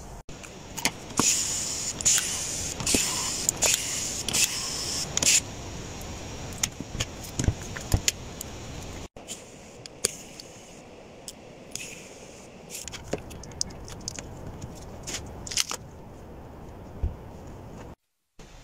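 Scattered metallic clicks, clinks and rattles of screws and small metal parts as an RTX 3090 graphics card is taken apart by hand, with bursts of higher scraping and hiss in the first five seconds.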